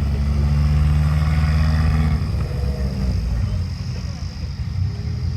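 A car engine running with a deep, steady note, loud for about the first two seconds, then fading as it moves off.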